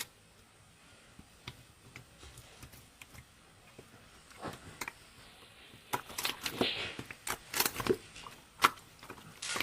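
Scattered small clicks and taps, few at first and coming thicker through the second half, with a short soft rustle in the middle of that.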